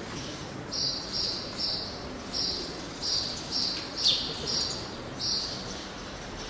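A small bird chirping repeatedly: short high chirps about twice a second, with a couple of quick downward-sliding notes in the middle.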